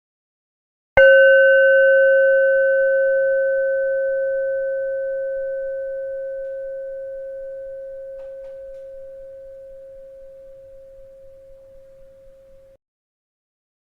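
A bell struck once about a second in, ringing with a steady low tone and fainter higher overtones that fade slowly over about twelve seconds. The ring cuts off abruptly near the end, and the next strike comes just as it stops.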